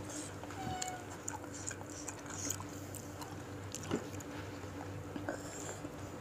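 Faint, scattered clicks and clinks of a spoon and bowl as a bowl of bakso meatball soup is handled, with one sharper tap about four seconds in.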